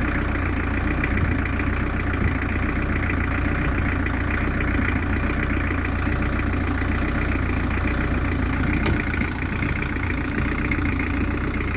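Beta Marine diesel engine in a narrowboat idling steadily on its first run after fitting.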